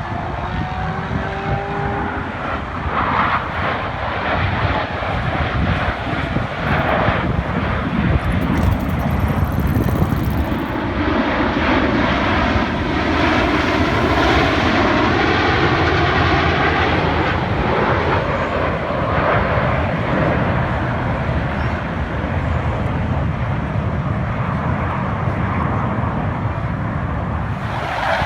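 Aircraft flying past, its engine noise loud and continuous and swelling to a peak about halfway through.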